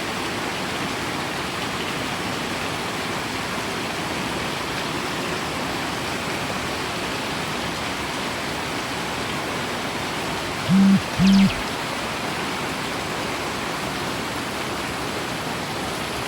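Heavy rain falling steadily, a dense even hiss. About eleven seconds in, two short, loud, low beeps about half a second apart cut through it.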